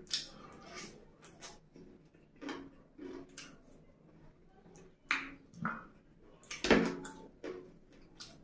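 Close-miked eating sounds: wet chewing, lip smacks and mouth clicks of a man eating saucy fried chicken with his fingers, coming in irregular short smacks, the loudest about three-quarters of the way through.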